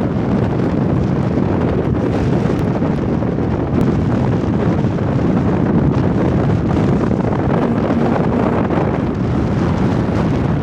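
Strong wind buffeting the microphone on the open deck of a boat at sea: a loud, steady rushing noise, heaviest in the low end.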